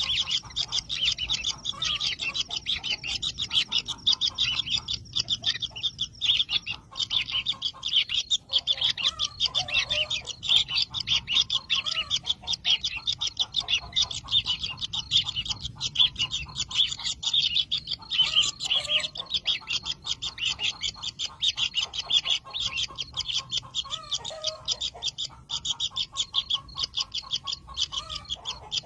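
Kingfisher chicks in their nest burrow giving a continuous stream of rapid, high, ticking calls, with a few lower calls that rise and fall now and then.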